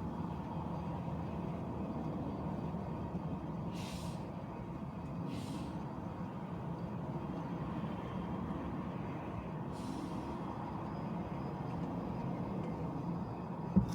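Steady road and engine noise of a car driving in city traffic, with three short hisses, two close together a third of the way in and one a little past the middle, and a sharp click at the very end.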